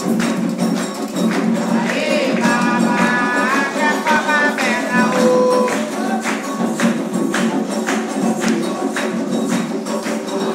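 Candomblé ceremonial music: steady rhythmic percussion with voices singing over it.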